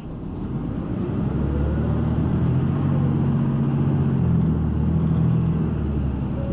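City bus engine heard from inside the bus, revving up as the bus accelerates. Its pitch and loudness rise over the first few seconds, then level off and ease slightly.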